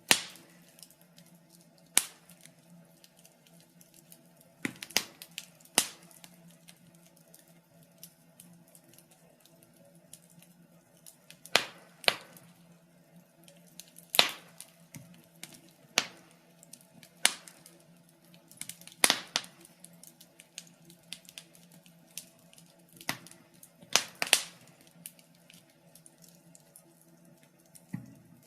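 Wood fire in a fireplace crackling: sharp pops and snaps at irregular intervals, one every second or few seconds, over a faint steady low hum.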